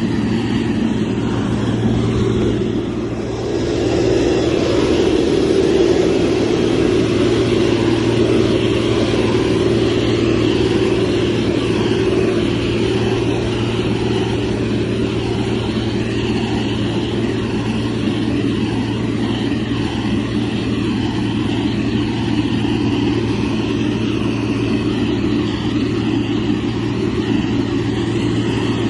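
Motor grader's diesel engine running steadily, with a brief drop in level about three seconds in before it picks up again.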